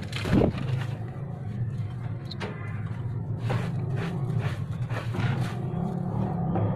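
A motor running steadily with a low hum, with irregular short scraping strokes over it, one sharper knock just after the start.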